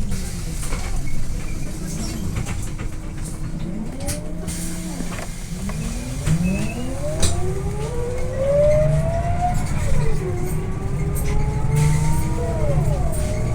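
Scania OmniLink I city bus's diesel engine and drivetrain heard aboard. The pitch falls as the bus slows, then rises steadily as it pulls away, drops sharply at a gear change about ten seconds in, and climbs again.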